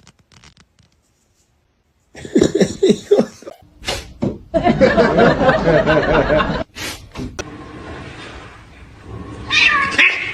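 Cat meowing: a run of short calls about two seconds in, then a longer, louder stretch of calling that stops abruptly about six and a half seconds in.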